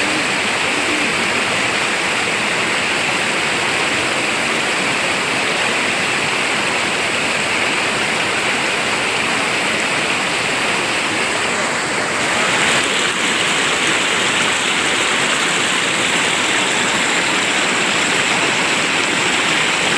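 Flowing river water rushing steadily, a dense, even hiss of running water, a little louder after about twelve seconds in.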